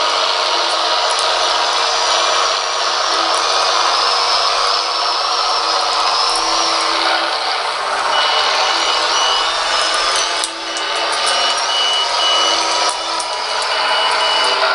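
Simulated Caterpillar D5 diesel engine and cooling fan sound from a Benedini micro sound system, played through a tiny speaker, thin and without bass. About eight seconds in, a reversing beeper starts beeping steadily as the dozer backs up.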